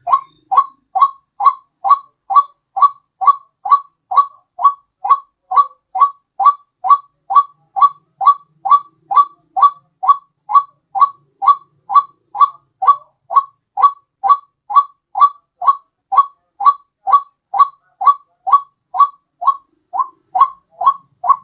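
White-breasted waterhen (ruak-ruak) lure-call recording: one short, slightly falling call repeated evenly about twice a second without a break.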